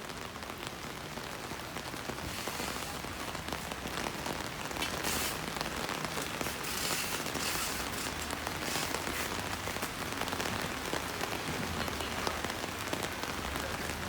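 Steady rain falling and pattering on hard surfaces, a dense hiss of drops with many small distinct taps, picking up slightly after the first couple of seconds.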